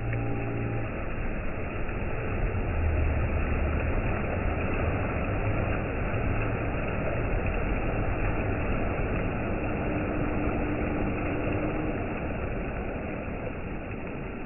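Surf on a black sand beach: waves washing in as a continuous rushing noise with a low rumble beneath, swelling a couple of seconds in and easing off toward the end.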